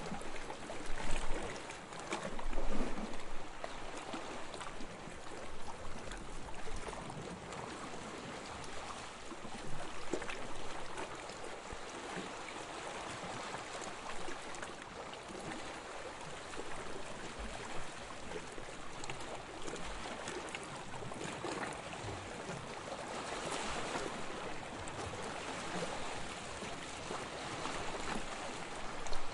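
Small waves lapping on a sandy shore: a steady wash that swells and ebbs, loudest about one and three seconds in.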